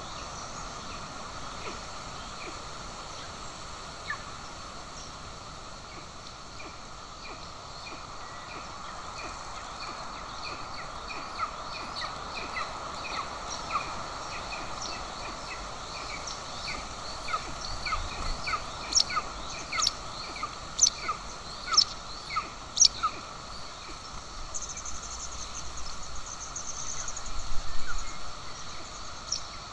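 Birds calling over a steady outdoor hiss: a long run of short, high chirps, with several loud, sharp, falling calls in a cluster about two-thirds of the way through. Near the end there is a louder, noisy burst.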